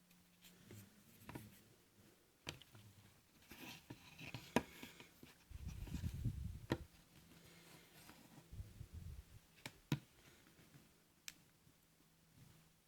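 Hands handling a Sony Xperia S smartphone: scattered light clicks and taps with some rubbing, and a louder low rumble of handling about halfway through.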